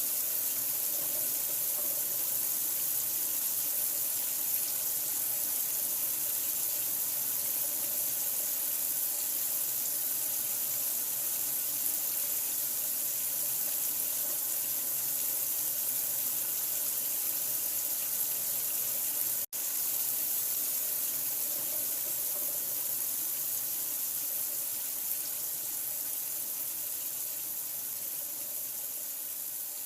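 Steady rush of running water, hissy and even, played as a sleep sound for a newborn. It cuts out for an instant about two-thirds of the way through, then carries on unchanged.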